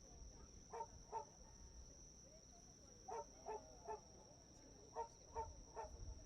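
Faint short honking animal calls, repeated in groups of two or three about 0.4 s apart, over a steady high-pitched tone.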